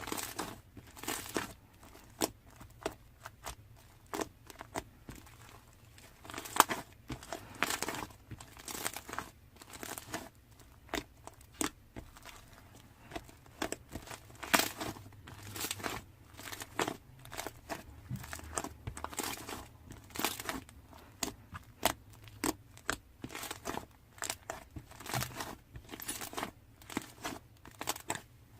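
Irregular crinkling and rustling of something being handled up close, with many short sharp ticks a few times a second.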